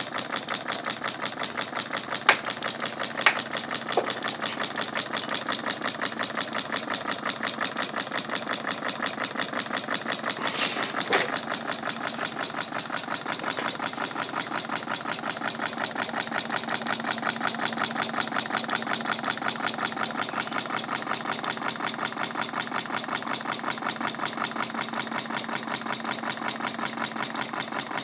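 Homemade 1-inch-bore model steam engine running on live steam from a small horizontal boiler, its exhaust beating in a rapid, even rhythm. A few sharp clicks come in the first few seconds, and a brief louder burst about ten seconds in.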